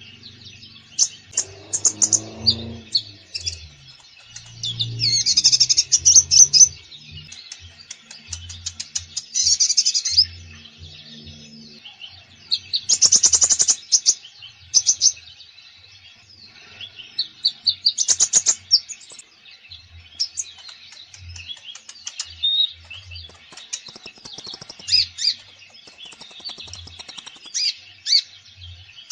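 Konin songbird singing in full, busy song: bursts of rapid high chirps and trills, repeated every few seconds. It is the lively 'gacor' song that keepers play to set silent konins singing.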